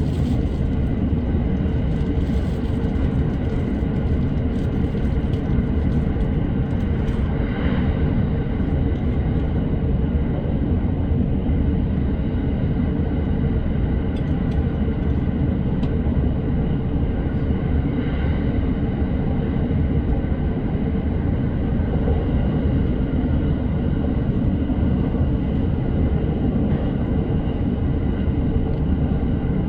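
Electric commuter train running at speed between stations, heard from inside the car: a steady low rumble of wheels on rail with a faint steady hum above it.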